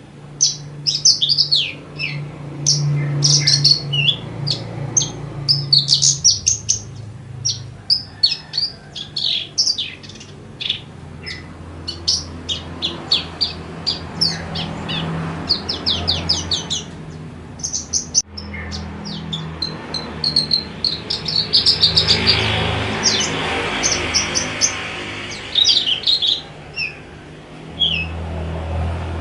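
Javan bush lark (branjangan) singing a fast, dense string of high chirps and trills with only short pauses between phrases.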